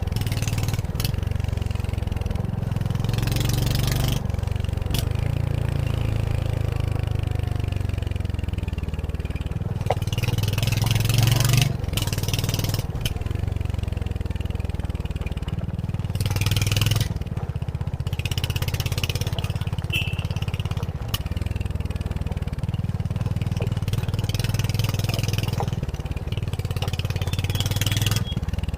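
Royal Enfield Hunter 350's single-cylinder engine running as the motorcycle is ridden, the engine note swelling and easing several times as the throttle opens and closes. Several brief rushes of hiss sit over it.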